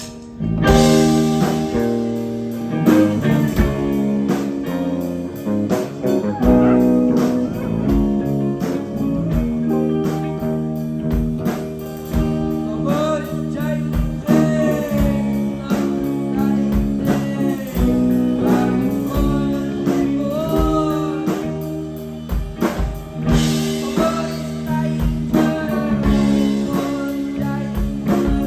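Live rock band playing at full volume: electric guitar, bass and drums, with the full band coming in about half a second in. Pitch-bending lines appear through the middle.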